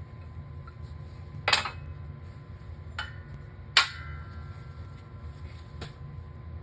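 Four sharp metal clinks over a steady low hum, the loudest about two thirds of the way through with a short ring: hand tools and metal parts knocking together during boogie wheel bearing work.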